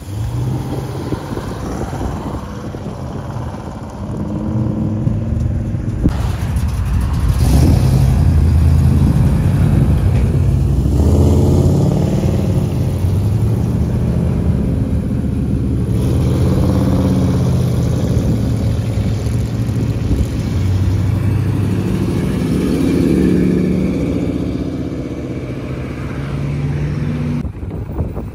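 Car engines running and revving, their pitch rising and falling several times.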